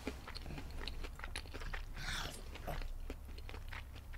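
Close-miked chewing of crunchy fried shrimp: a quick run of small crunches and wet mouth clicks, with one short hiss of breath about two seconds in.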